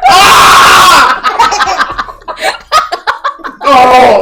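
People laughing and snickering in a small room. A loud, noisy vocal outburst fills the first second.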